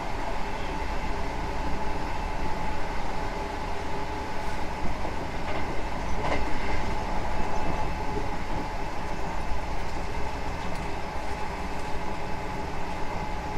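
Hankyu 9000 series electric train running along the line, heard from inside the car: a steady rumble of wheels on rail with a steady whine from the traction equipment. A brief clack about six seconds in.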